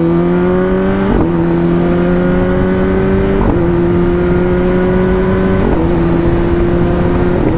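Kawasaki Ninja ZX-10R inline-four engine pulling along the road, heard from the rider's seat over wind noise. Its pitch climbs slowly and breaks briefly about every two seconds as it shifts up a gear.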